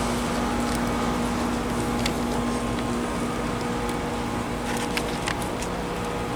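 A steady machine hum under an even hiss, with a few faint ticks about two seconds in and again around five seconds in.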